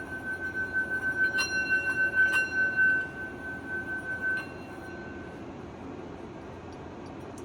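Singing bowl ringing with a steady, pulsing tone while a crystal sitting inside it clinks against the metal a few times. The ring fades out about two-thirds of the way through, leaving room hiss.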